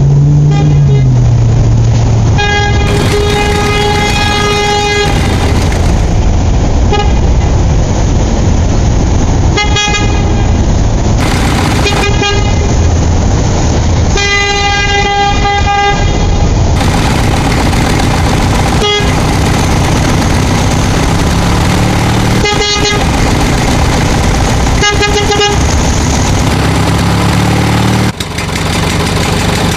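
Vehicle engine running steadily, with a horn honking repeatedly over it: two long honks and several short ones.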